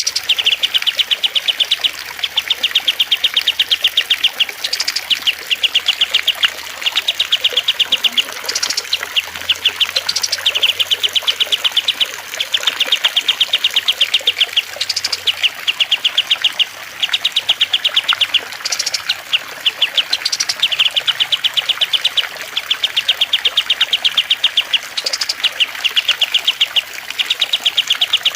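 Recorded cage-bird song from a training mix of cililin, kastem and lovebird: bouts of very fast, rapidly repeated chattering notes, each about one to two seconds long with short breaks, now and then a higher sharp call, over a faint steady hiss of trickling water.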